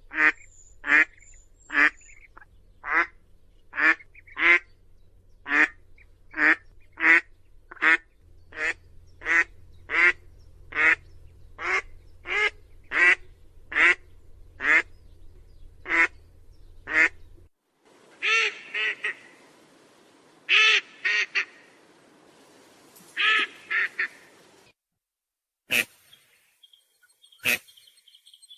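Duck calls: a long run of single, evenly spaced quacks, about one and a half a second, which stops after some 17 seconds. Then calls come in bunches of two or three, and near the end there are a few sharp clicks.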